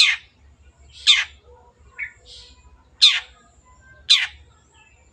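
Long-tailed shrike (cendet) giving harsh calls that sweep downward in pitch, four of them about a second apart, with a couple of softer short notes in the gap between the second and third.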